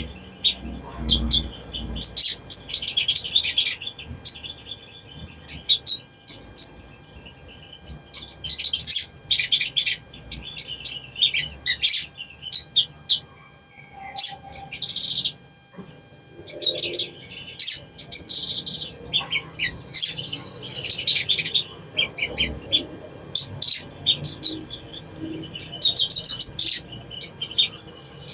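A spiderhunter (sogon) singing: rapid, high-pitched chattering phrases in repeated bursts with short pauses between them.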